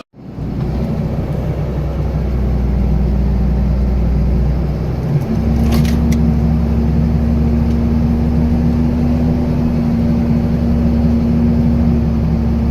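26-foot Penske moving truck's engine running steadily as it drives, its note shifting about five seconds in, with a couple of brief rattles soon after.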